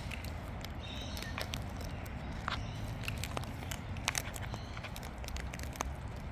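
Wild birds moving and feeding close by: scattered small clicks and taps, with a couple of brief faint chirps about a second and a half in, over a low steady rumble.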